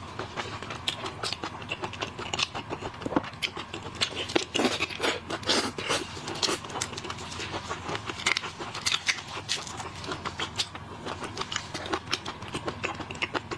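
Close-miked eating of shellfish: a dense run of wet clicks, crackles and smacks as shells are peeled and the meat is chewed.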